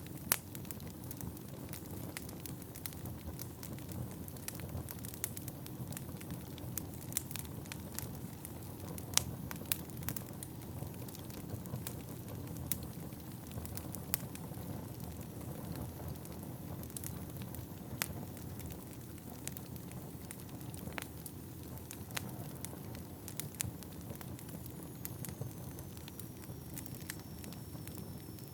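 Wood fire burning in an indoor fireplace: a steady low rumble of flames with irregular sharp crackles and pops of the burning logs. Near the end a faint high whistle slides slightly down in pitch.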